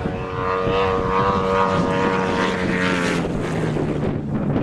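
An engine running with a steady droning note; its higher tones drop away about three seconds in and the lower note fades out near the end.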